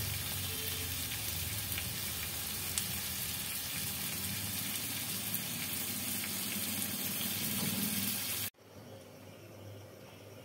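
Prawns frying in oil and spice paste in a pan: a steady sizzle that cuts off abruptly about eight and a half seconds in, leaving a much fainter low background.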